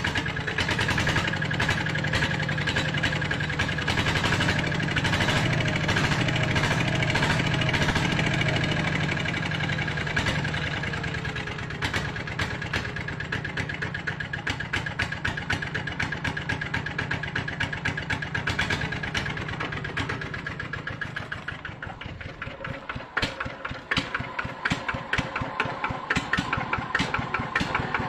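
Kubota single-cylinder diesel engine running with a steady rapid chugging beat. It runs harder in the first half, then eases back, and its separate firing beats stand out more clearly near the end.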